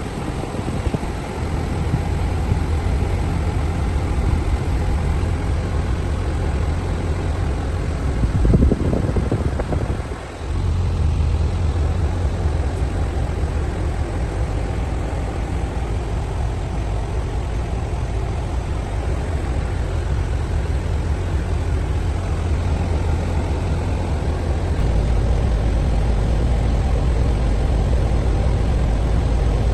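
Truck engine idling steadily, with a brief louder rush about eight seconds in and a short dip just after; the low rumble grows louder a few seconds before the end.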